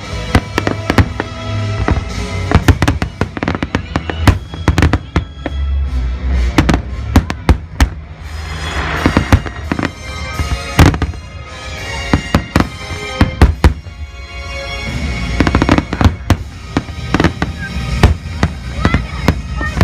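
Fireworks display: many sharp bangs in quick succession over music, with a stretch of crackling about halfway through.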